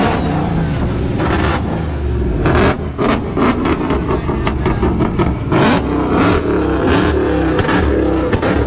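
Loud car engines running and revving, with repeated short surges over a steady low rumble.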